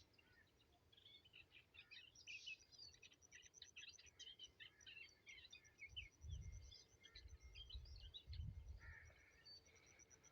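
Faint wild birdsong: several birds chirping in many short, quick high notes, with a fast, even high trill running through most of it. A low rumble comes and goes in the middle.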